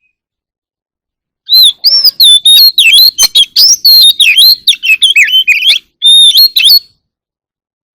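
Oriental magpie-robin singing loudly: a fast, varied run of whistled notes and clicks that starts about a second and a half in, breaks briefly, then ends with one more short phrase.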